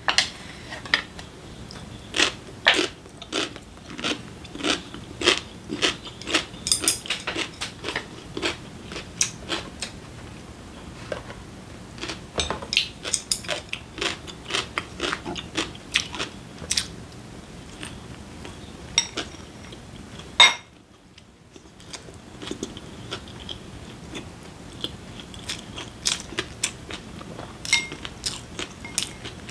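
Close-miked eating: crisp bites and chewing, a run of sharp crunches that fits pickled yellow radish (danmuji) being eaten. The eating drops out briefly, for about a second and a half, about two-thirds of the way through.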